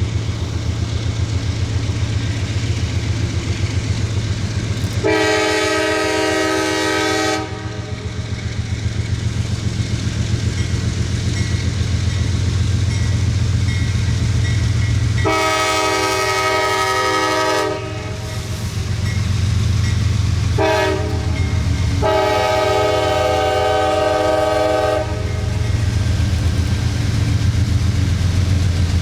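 Locomotive horn chord sounding long, long, short, long, the grade-crossing signal, over the steady rumble of a passing train.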